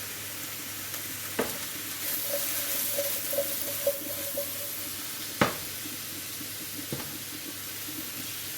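Onions and mushrooms frying in sunflower oil in a hot pan: a steady sizzle, with three sharp knocks of a utensil against the pan, the loudest about halfway through.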